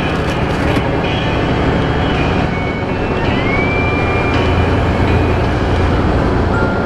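Semi truck's engine and road noise while driving, a steady low drone.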